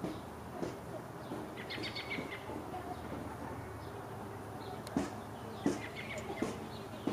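Outdoor backyard ambience: a songbird sings a short phrase of rapid high notes about two seconds in and again near six seconds, over a steady low background hum. A few faint clicks sound in the second half.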